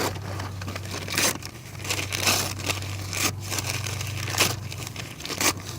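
Small pieces of firewood and paper being handled and broken by hand for a campfire: irregular crunches, snaps and crinkles, about one every second, over a steady low hum.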